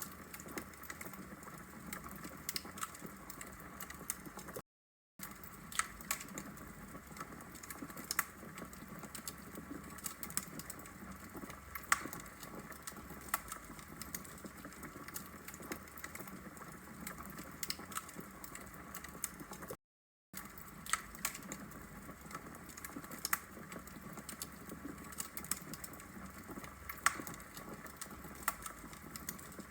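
Logs burning in a brick fireplace, crackling with irregular sharp pops and snaps over a soft steady hiss. The sound cuts out completely for a split second twice, about five seconds in and about twenty seconds in.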